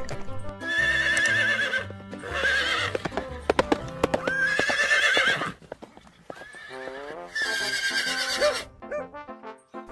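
Horse whinnying four times, each call a wavering, trembling neigh about a second long, over background music.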